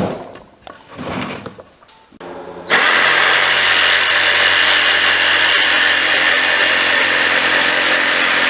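A few handling knocks, then an electric power tool starts up about three seconds in and runs steadily at full speed, working on plywood.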